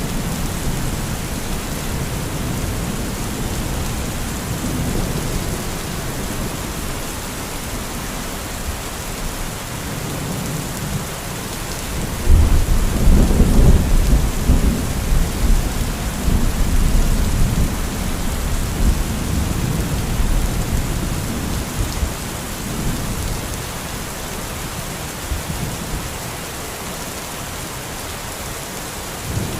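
Steady heavy rain with rolling thunder rumbling underneath. A loud, long thunder rumble builds up about twelve seconds in and rolls on for several seconds before easing back to the rain.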